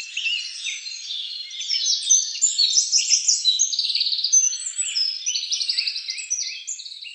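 Many birds chirping and trilling at once, a dense chorus of short overlapping calls that thins out near the end.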